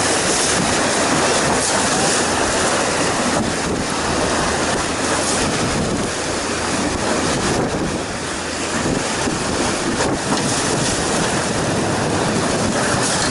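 Steady rush of river water around a raft on the Colorado River, with wind buffeting the microphone.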